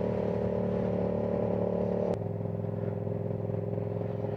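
Yamaha R7's 689 cc parallel-twin with an aftermarket exhaust running at a steady, unchanging pitch, heard from inside the rider's helmet. About two seconds in there is a sharp click, after which the note drops slightly and gets a little quieter.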